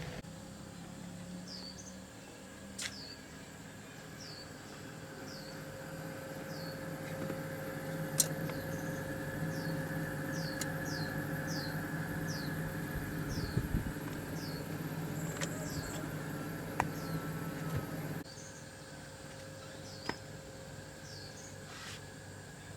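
A steady mechanical hum that stops abruptly near the end, with short falling chirps repeating about once a second and a few sharp clicks.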